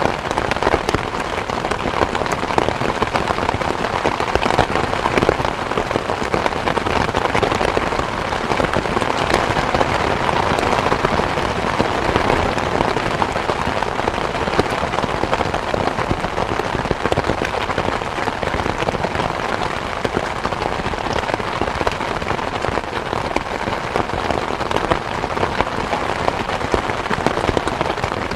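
Steady rain falling: an even, dense hiss made up of countless small drop ticks, holding at the same level throughout.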